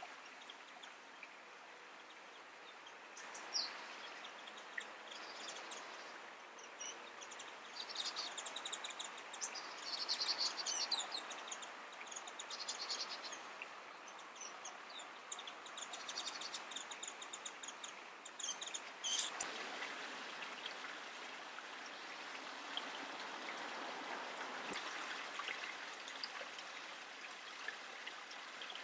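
Small wild songbirds calling: stretches of rapid, high twittering and a couple of sharp, falling call notes, over a steady outdoor hiss.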